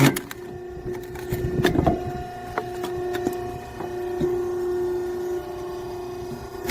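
Hydraulic log splitter's 5-horsepower single-phase electric motor and pump running with a steady hum, with a few light knocks and clicks.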